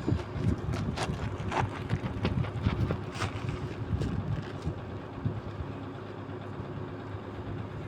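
Excavator engine running steadily, with a string of sharp knocks and clanks over the first four seconds or so, after which only the engine is heard.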